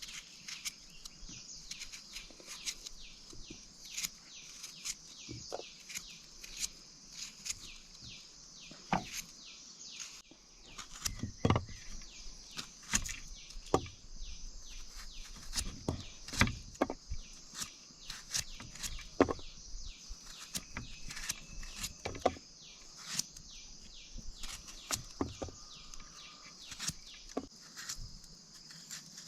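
Steady high-pitched chorus of crickets or other insects, with irregular sharp taps and knocks scattered through it, loudest around the middle.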